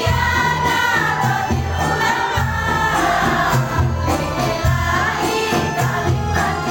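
Choir singing sholawat, an Islamic devotional song, over instrumental accompaniment with a steady bass line.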